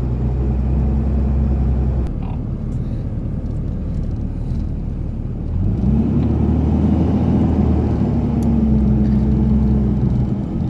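Car engine and road noise heard from inside the moving vehicle, easing off about two seconds in, then picking up speed with a rise in engine pitch about halfway through and running steadily again.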